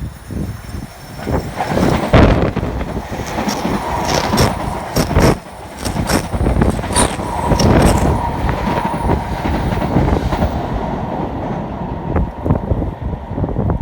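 A train passing close by, its wheels clattering over the rail joints in repeated knocks, with a faint steady whine and a continuous rumble.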